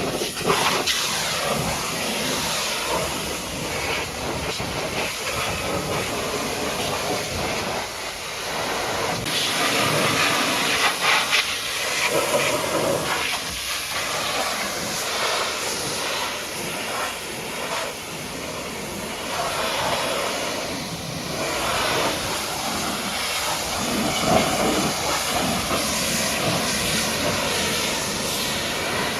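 High-pressure washer jet hissing and spattering as it blasts mud off a truck's body, its level shifting as the spray moves over different surfaces.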